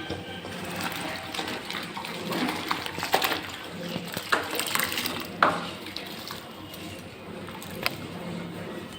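Water splashing while plastic refrigerator parts are scrubbed and washed in detergent water, with several sharp knocks and clatters of the parts in the middle.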